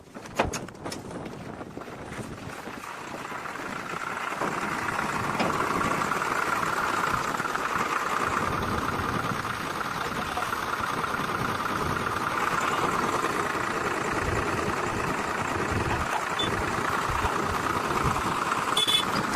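Vehicle engine running, growing louder over the first few seconds, then holding steady.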